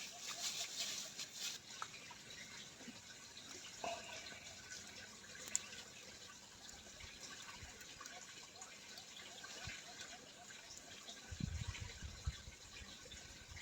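Faint trickling and dripping water, with scattered small clicks and a few low bumps near the end.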